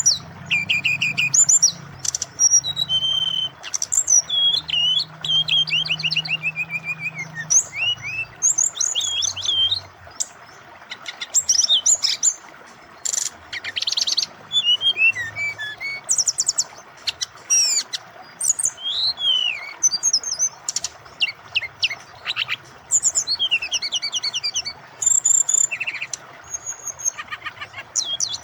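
Brown-chested jungle flycatcher (sikatan rimba dada coklat, 'SRDC') singing energetically: a fast, varied run of whistles, rising and falling glides, trills and chirps, over a steady rush of flowing water.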